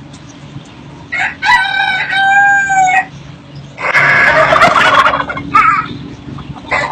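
A rooster crowing: one drawn-out crow about a second in, then a louder, rougher call and two short squawks near the end.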